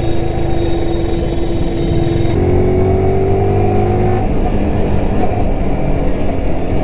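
Yamaha R15 motorcycle's single-cylinder engine running under way, mixed with road and wind noise; about two and a half seconds in its pitch rises as the bike accelerates.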